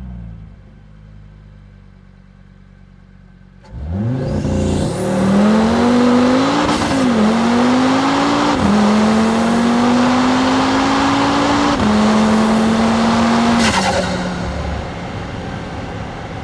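Car engine heard from inside the cabin, running quietly for a few seconds, then accelerating hard with the pitch climbing through each gear and dropping at three upshifts. The throttle lifts about 14 seconds in and the engine falls back to a lower, steady running sound with road noise.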